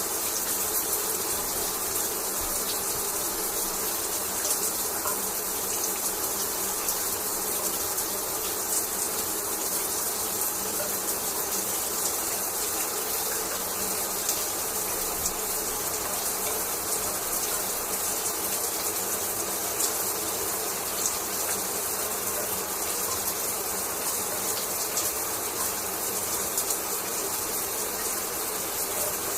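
Shower spray falling and splashing steadily, a dense, even hiss of water.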